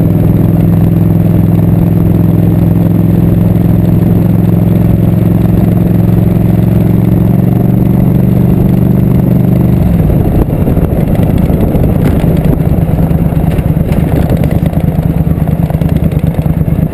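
Suzuki Intruder 700 V-twin motorcycle engine running steadily at speed; about ten seconds in the note drops into a lower, pulsing beat as the bike slows.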